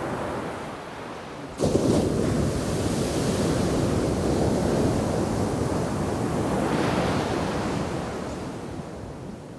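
A shore-break wave crashing onto the beach: a sudden crash about a second and a half in, then a long rush of surf that fades near the end, with some wind on the microphone.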